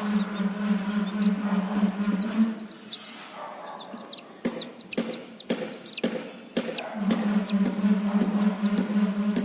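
Chicks cheeping, many short high peeps that drop in pitch, coming thickest in the middle. A steady low hum runs under them, stopping for a few seconds in the middle.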